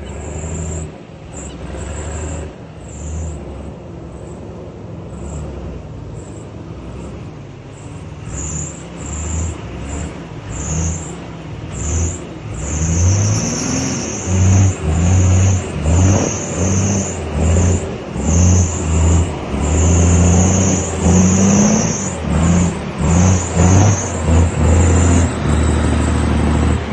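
Heavy trucks' diesel engines running and revving, the engine note rising and surging on and off, louder from about halfway on.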